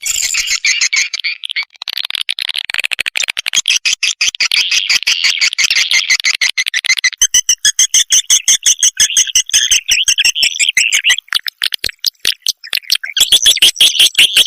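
Recorded swiftlet call track: swiftlets twittering in rapid, dense trains of high chirps, many a second, thinning out with short gaps near the end. It is the lure call played to draw swiftlets to a nest house.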